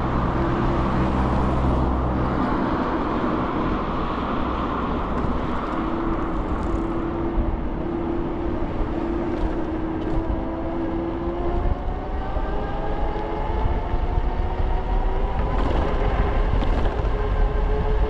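Wind and road noise from riding an electric scooter. Over the last several seconds a whine rises steadily in pitch as the scooter picks up speed.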